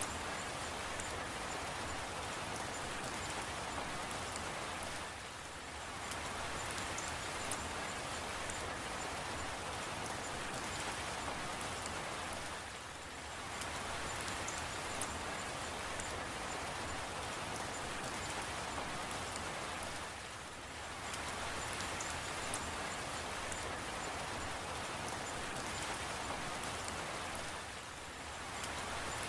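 Steady rain falling, an even hiss dotted with small sharp drop ticks. The level dips briefly about every seven and a half seconds.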